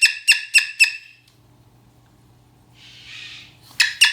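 Moluccan cockatoo giving a rapid train of short, sharp calls, about four a second, that stops about a second in and starts again near the end, with a short hiss between.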